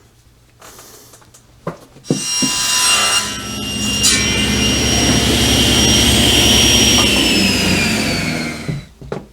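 Electric power saw running and cutting, with a steady high whine. It is switched off about seven seconds in and the whine falls as the motor winds down.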